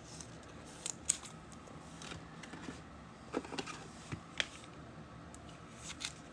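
Trading cards being handled and sorted by hand: a few light clicks and rustles spread through a quiet stretch.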